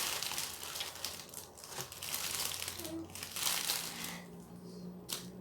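Red and orange cellophane crinkling and rustling in irregular bursts as it is handled and pushed about inside a small toilet-paper-roll bonfire.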